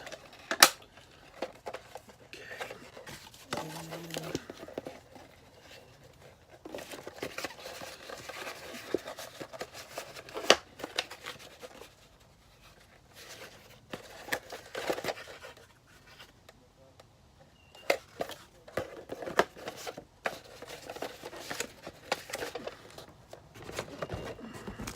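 Paper, cardboard and plastic toy packaging being handled: rustling and crinkling with sharp clicks and knocks now and then, the sharpest just under a second in.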